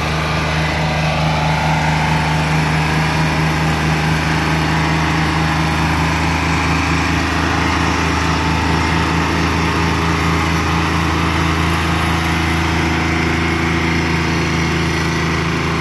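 Old logging truck's engine running at a steady speed, its pitch and level holding even throughout.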